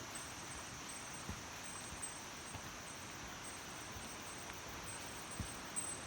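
A mountain stream rushing steadily over rocks, with an insect trilling high in repeated broken phrases above it. A few faint knocks stand out, the clearest near the end.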